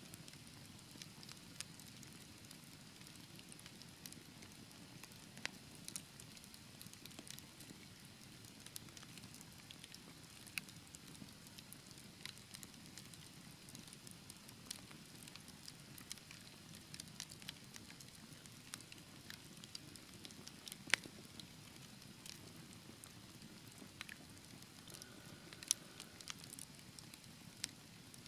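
Fireplace fire crackling: a soft steady low rumble of flames with scattered sharp pops and snaps throughout. Two louder pops stand out, one about two-thirds of the way through and one near the end.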